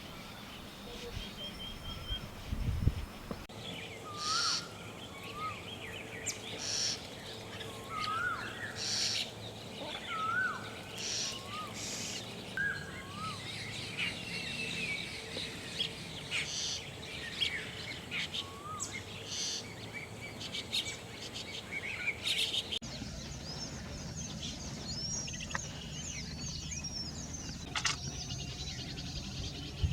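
Wild birds calling outdoors: repeated short, curved chirps. After a cut near the end they give way to a busier chorus of higher twittering calls.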